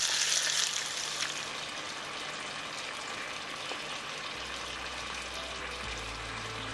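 Bacon and eggs sizzling in a frying pan, loudest for about the first second and then a softer, steady sizzle.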